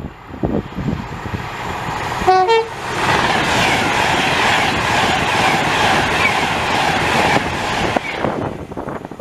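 A train sounds a brief two-tone horn, a low note then a higher one, then passes with a loud rush of wheel and air noise lasting about five seconds that fades near the end.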